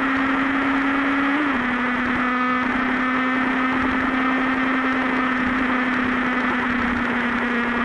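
Superbike engine running at steady cruising revs under a constant rushing noise. About a second and a half in, its pitch jumps briefly and then settles a little lower.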